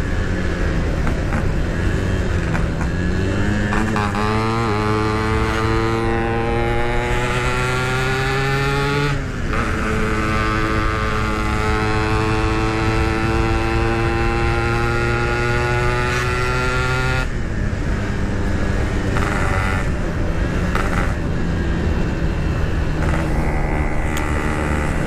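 Yamaha RX King two-stroke single-cylinder motorcycle, fitted with a Packing Power expansion-chamber exhaust, being ridden at speed. Its pitch climbs for several seconds and drops at a gear change about nine seconds in, then climbs slowly again before the engine tone falls away about seventeen seconds in, leaving road and wind noise.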